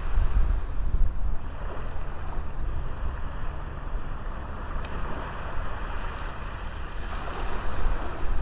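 Sea waves washing onto a small beach, a steady surf that swells again near the end, with low wind rumble on the microphone.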